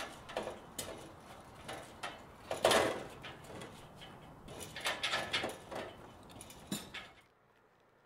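Aluminium extension ladder clanking and rattling under a man's boots as he climbs it rung by rung: irregular knocks, with a louder scraping clank about two and a half seconds in. It stops suddenly about seven seconds in.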